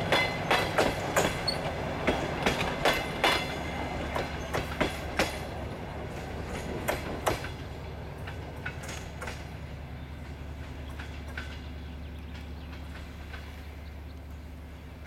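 Wheels of passenger coaches clicking over rail joints as the tail of the train passes and draws away, the clicks thinning out and stopping about seven seconds in. Under them, the low steady drone of the train's 2TE10M diesel locomotive, with its 10D100 opposed-piston two-stroke engines, carries on and slowly fades.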